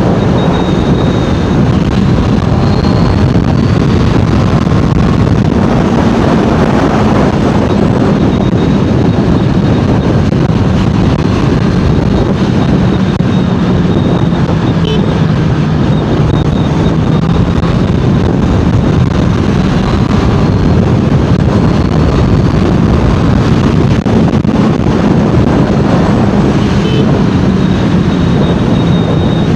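Honda CBR650R inline-four engine and exhaust running at a steady cruise, its pitch easing down slightly a few times, with wind rushing over the microphone.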